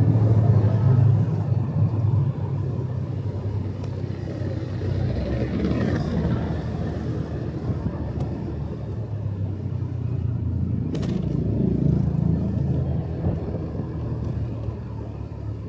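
Motorcycle engine running under way, a steady low rumble that is louder for the first couple of seconds and then eases off a little. A single sharp click about eleven seconds in.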